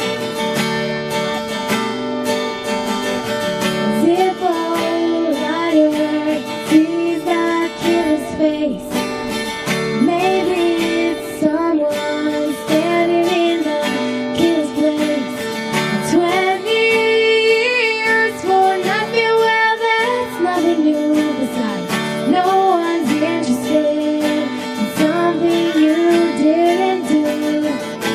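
A woman singing a slow song over strummed acoustic guitar.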